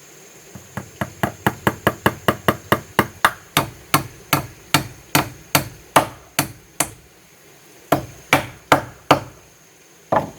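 A hand tool striking wood in a fast run of blows, about five a second at first, then slowing to about two a second; after a short pause come four more blows and a single last one near the end.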